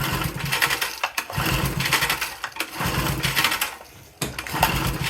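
Briggs & Stratton edger engine being pull-started again, cranking roughly in several pulls with short breaks between them. The engine stalls out soon after starting, which the owner puts down to the carburetor.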